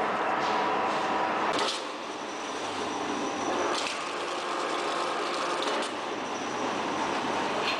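Tire recycling line machinery running steadily with a dense mechanical clatter, with a few sharp knocks: one about two seconds in, one about four seconds in and one near the end.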